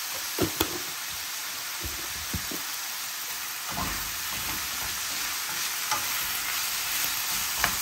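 Onions, garlic and dried red chillies sizzling in oil in a stainless steel pan, with a metal spoon stirring them and knocking against the pan a few times.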